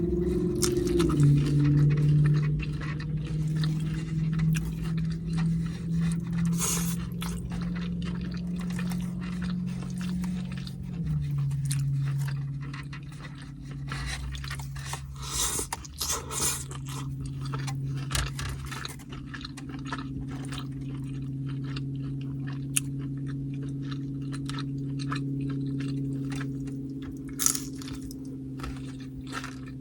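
Close-up chewing and crunching of carne asada tortilla chips: many short crisp crunches throughout, over a low steady hum.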